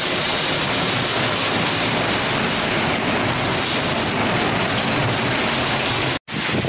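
Torrential storm rain pouring down in a dense, steady rush. The sound cuts out abruptly for a split second near the end, then comes back.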